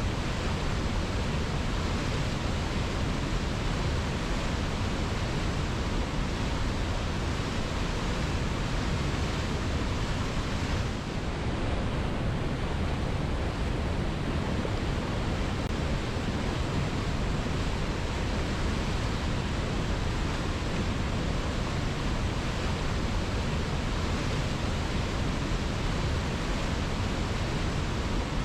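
Waterfall pouring over rocks: a steady, full rushing of falling water, dipping briefly about eleven seconds in.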